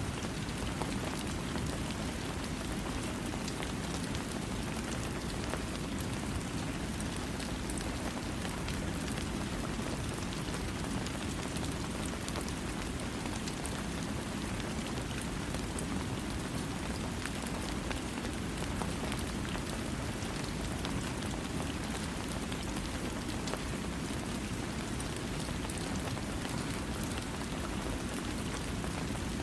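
Steady rain falling without thunder: an even, unbroken wash strongest in the low range, with fine drop ticks over it.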